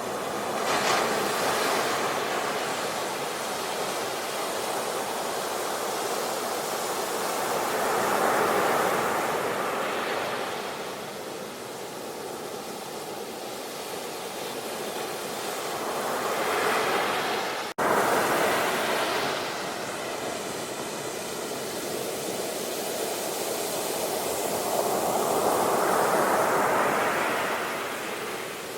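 Sea waves breaking and washing up the shore: the surf swells and fades in roughly four surges several seconds apart, with a split-second break in the sound about two-thirds of the way through.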